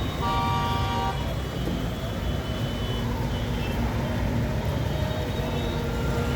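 Jammed street traffic: engines running with a steady low rumble, and vehicle horns honking, one horn held for about a second near the start and fainter toots later.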